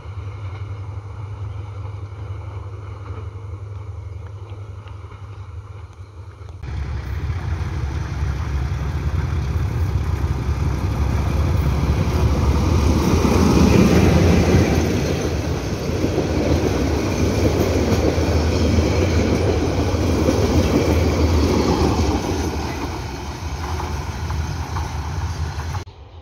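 Diesel locomotive hauling a passenger train passing close by, its engine and the wheels on the rails loudest about halfway through, then the coaches running past more steadily. Before that a quieter low rumble gives way abruptly to the pass about six seconds in.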